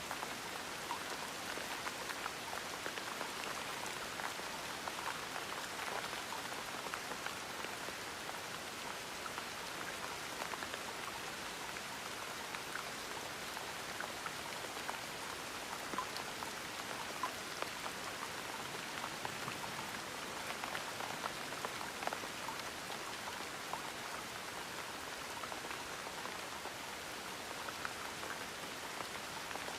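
Gentle rain falling steadily: an even hiss scattered with the small, sharp ticks of individual drops hitting a surface.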